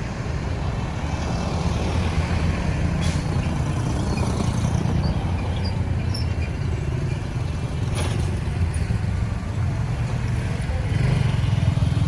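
Road traffic: the steady low rumble of engines and tyres from vehicles on the road, swelling as a vehicle passes near the end.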